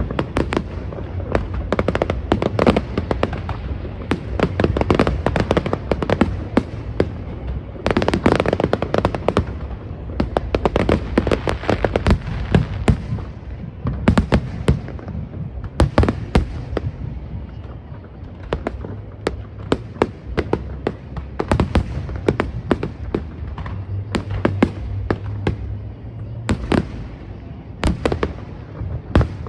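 Fireworks going off in a dense, irregular string of bangs and crackles, with a steady low rumble under them.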